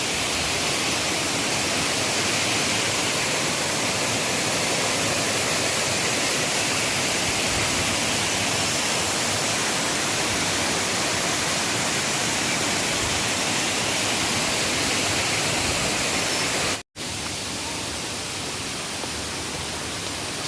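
Waterfall: a steady rush of falling water. It cuts out for an instant about three-quarters of the way through, then carries on a little quieter.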